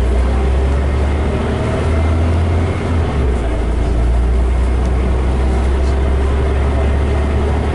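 Scania OmniCity single-deck bus running, its engine a steady low drone that shifts briefly about three seconds in.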